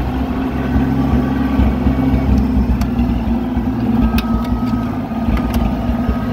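Oliver 770 tractor engine running steadily, heard from the seat, with a few light clicks and rattles through the middle.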